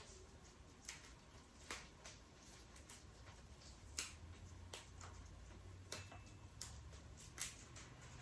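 Near silence with faint, sharp clicks or taps roughly once a second over a low room hum.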